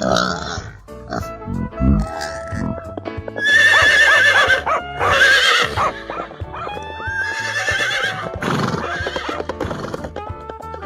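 Horse neighing twice, about three and a half and seven and a half seconds in, each call wavering in pitch, over steady background music.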